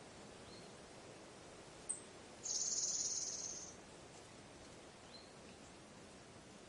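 Forest ambience: a soft steady background hiss with a few faint, short high chirps, broken about two and a half seconds in by a loud, high, rapid buzzing trill that lasts just over a second.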